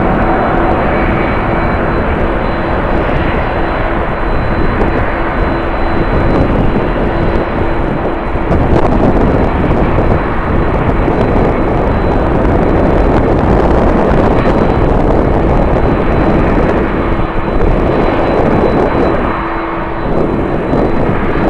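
Airliner's engines running loud and steady, swelling from about nine seconds in and easing off near the end, with a steady hum under the roar and strong wind rumbling on the microphone.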